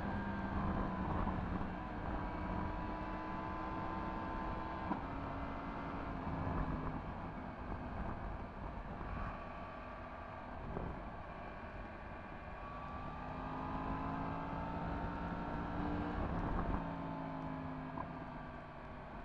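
Yamaha MT-10 SP's 998 cc crossplane inline-four engine with an Akrapovic exhaust, running under way at moderate revs. Its pitch climbs slowly and drops sharply about five seconds in and again near the end, over road and wind noise.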